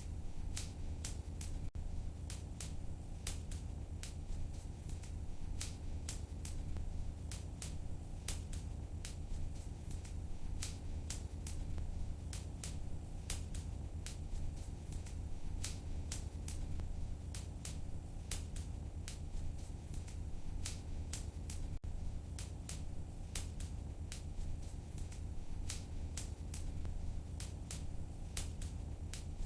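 Wood fire crackling in a fireplace: frequent irregular sharp pops and crackles over a steady low rush of burning.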